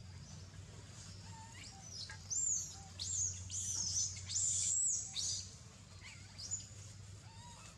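A bird calling in the forest canopy: a quick run of high, arching chirps between about one and a half and five seconds in, then a couple more near the end.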